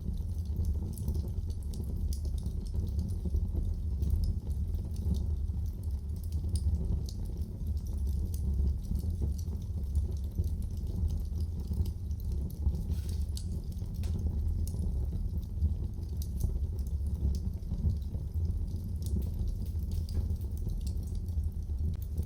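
Wood fire burning in a fireplace: a steady low rumble of flame with many small crackles and pops throughout.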